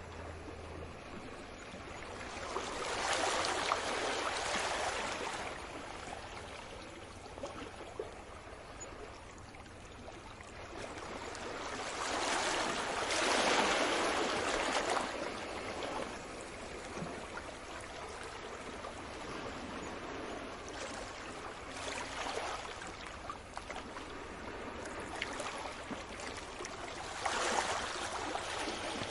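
Sea waves breaking and washing in: a steady hiss of water, with a louder surge of surf about every ten seconds.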